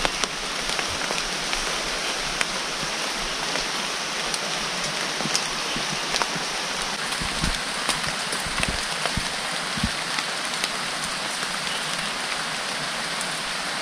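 Steady rain falling, an even hiss of drops with scattered small pattering clicks, and a few soft low thuds near the middle.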